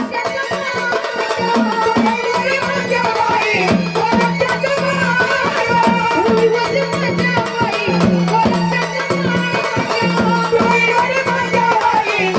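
Instrumental stretch of Marathi gondhal folk music: a drum played in quick strokes, its low notes bending downward again and again, over fast high ticking and a steady held tone.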